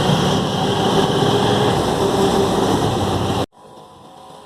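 Loud steady noise of street traffic, with vehicle engines running in the rain, that cuts off abruptly about three and a half seconds in, leaving a much quieter background.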